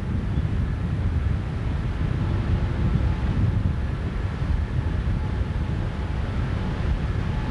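Wind buffeting the microphone over the steady, faint whine of an outboard motor running an inflatable boat under way.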